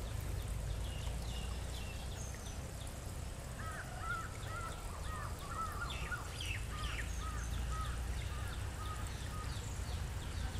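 Birds calling outdoors: a run of short arched chirps, about two a second, from a few seconds in until near the end, with scattered thinner high notes, over a steady low rumble.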